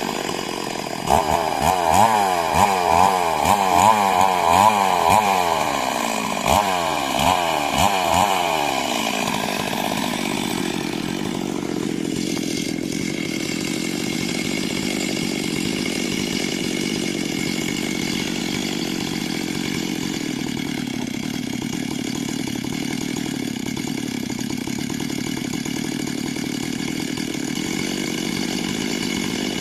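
Two-stroke chainsaw revved up and down over and over for about eight seconds, then dropping to a steady idle about ten seconds in.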